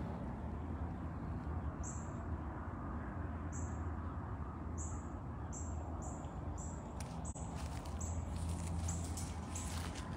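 A small bird chirping: short, high, falling notes repeated every second or so, over a steady low rumble.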